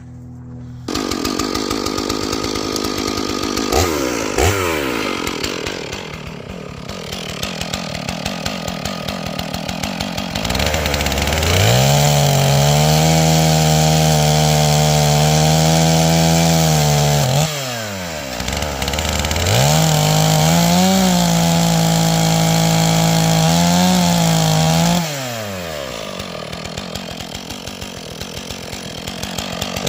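Stihl MS461 two-stroke chainsaw idling, then run at full throttle through two long cuts of about six seconds each. The pitch sags and wavers under the load of each cut. It drops back to idle between the cuts and after them.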